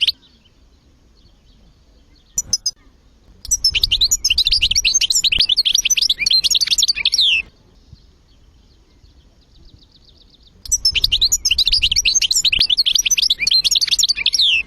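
European goldfinch song: two long phrases of rapid twittering and trills, each about four seconds, separated by a pause of about three seconds, with a brief chirp before the first.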